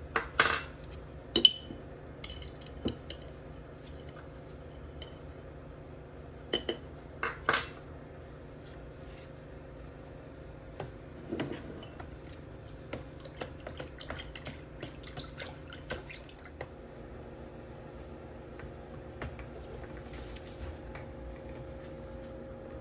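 Small metal parts clinking and being set down on a hard surface: a few sharp clinks with brief ringing in the first several seconds, then a run of lighter taps and rattles.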